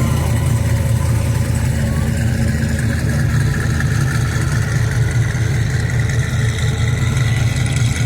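Classic car engine running steadily at low speed, a deep even rumble with no change in pace.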